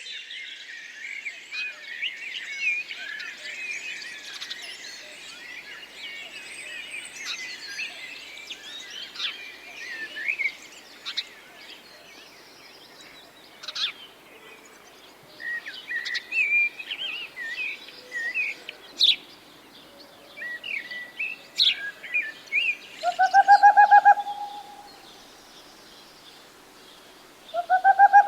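Wild birds singing: a dense chorus of many overlapping high chirps and trills that thins after about ten seconds to scattered single chirps. Near the end come two louder, lower calls, each about a second long, the second starting just before the end.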